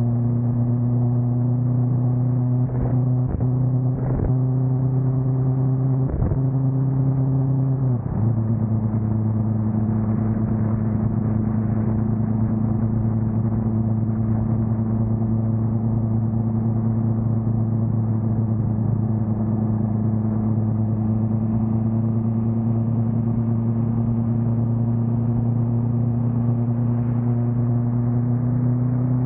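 BMW S1000R inline-four engine running at a steady cruise, a few brief interruptions in the first eight seconds as gears change, the pitch settling slightly lower about eight seconds in and then holding even.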